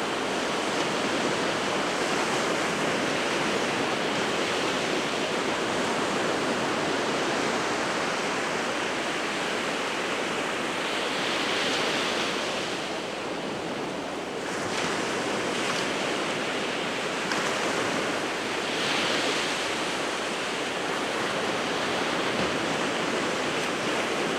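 Sea waves breaking and washing on the shore in a continuous rush, swelling louder about halfway through and again a few seconds later as waves crash.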